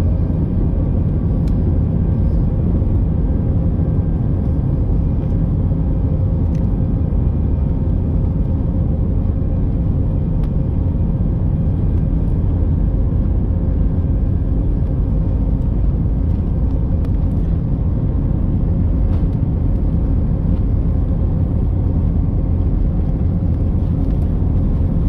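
Airbus A319 jet engines running at steady power: a constant deep rumble with a faint steady whine above it.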